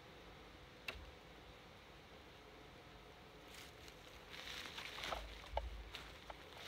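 Faint handwork on a wooden pole: a single click about a second in, then a few seconds of scraping and rustling from about the middle on, with a few short squeaks.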